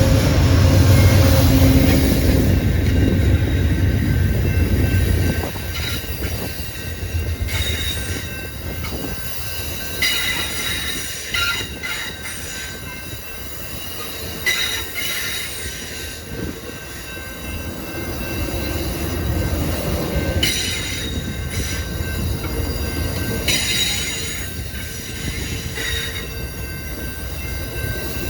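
Amtrak Empire Builder passenger train rolling past, its wheels squealing in short high bursts every few seconds over a steady rumble. The rumble is loudest for the first five seconds and then eases off.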